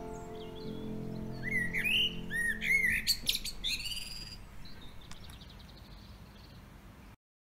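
A songbird singing in a tree: a few fluty, whistled phrases with high squeaky notes, over closing music that fades out within the first three seconds. The song then grows faint, and the sound cuts off to silence near the end.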